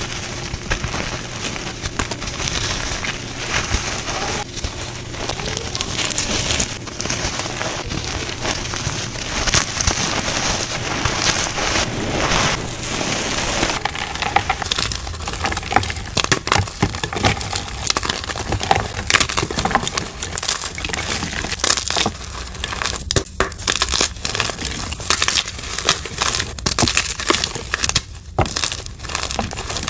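Dyed gym chalk being crushed and crumbled in a dense, continuous run of crunching and crackling, with a change in texture about halfway through.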